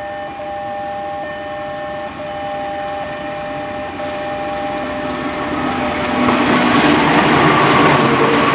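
Passing train: steady high tones hang over the first half, then the rumble of the train grows loud from about six seconds in as it comes past.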